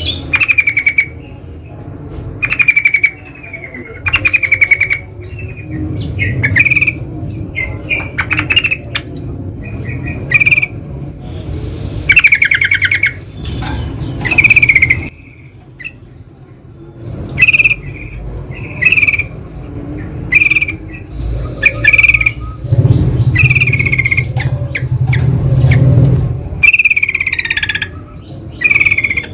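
Yellow-vented bulbuls (trucukan) calling, with short, bubbly chattering phrases repeated one after another. A low rumble rises under the calls for a few seconds near the end.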